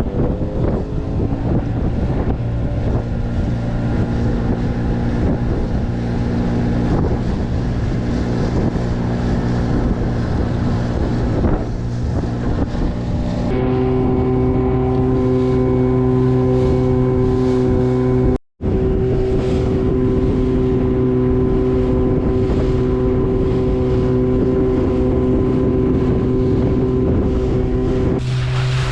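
A small fishing boat's motor running steadily, with wind blowing on the microphone. The engine note shifts about halfway through and changes again near the end.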